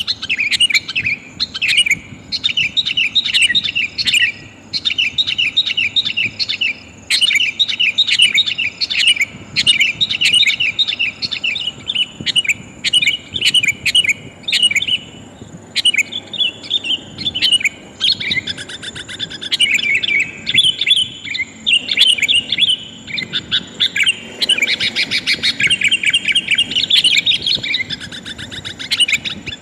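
Sooty-headed bulbul calling: runs of quick, bright chirping notes repeated in bursts, turning into more varied, warbling phrases about halfway through. Given as a female bulbul calling for a male, a lure call for wild bulbuls.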